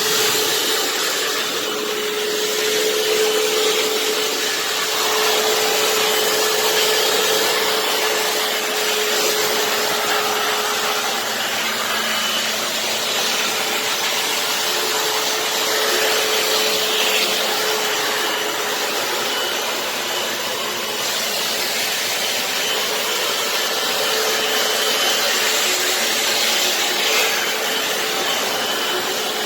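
An electric motor running steadily with a loud rushing hiss and a faint steady hum.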